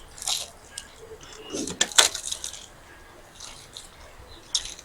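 Close-up eating sounds from a meal of water-soaked fermented rice and fried snacks: scattered wet mouth clicks and crunchy crackles, with one sharp knock about two seconds in.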